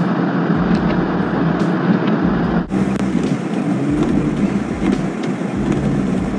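Steady vehicle noise with a low hum, broken by an abrupt cut about two and a half seconds in, after which similar vehicle noise carries on.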